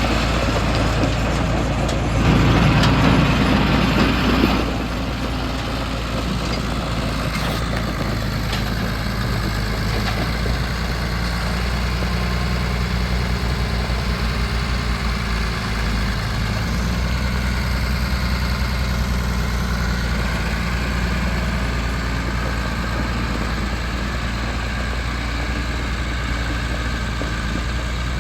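John Deere 2940 tractor's six-cylinder diesel engine running steadily, louder for a couple of seconds about two seconds in.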